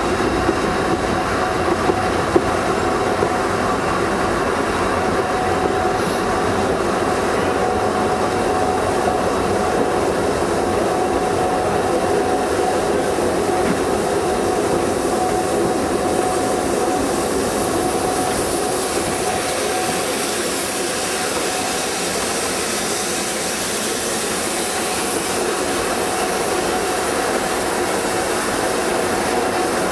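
Narrow-gauge steam railway train running, heard from an open coach window: a steady rumble and clatter of wheels on the rails, with a thin high whine for several seconds in the middle, while a second steam-hauled train passes on the next track.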